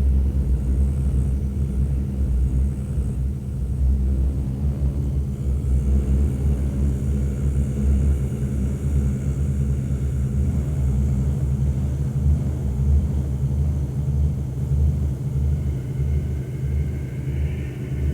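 Dark ambient, ritual-industrial drone: a loud, dense, steady low rumble with several held low tones. A faint higher ringing tone comes in near the end.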